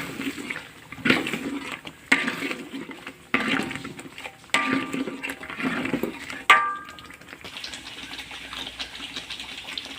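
Metal spoon knocking and scraping against cookware about six times, roughly a second apart, several knocks ringing briefly, as spoonfuls of sugar go into the sambal. In the last few seconds there is only a steady low hiss of the simmering sambal.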